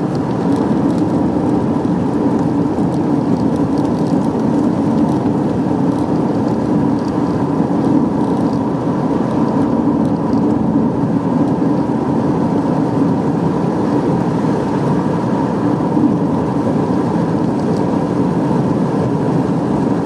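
Steady road and engine noise of a moving car, heard from inside the cabin: an even, low rumble with no break.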